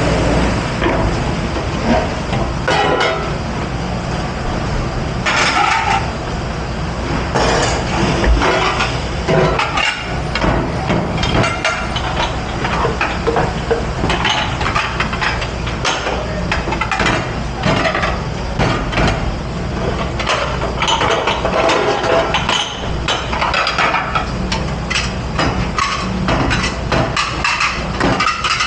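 Dishes, pans and utensils clattering and clinking in a restaurant dish pit, many irregular knocks, over a steady low hum.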